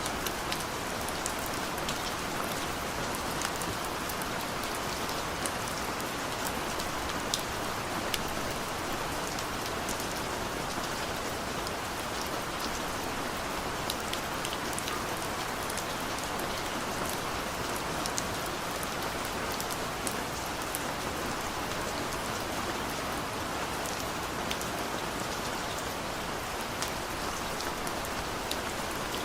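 Steady rain falling, with the crisp patter of individual drops hitting close by over a constant wash.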